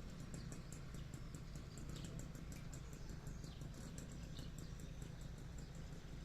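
Outdoor ambience: a rapid run of high-pitched ticks, several a second, with a few short bird chirps, over a low steady hum.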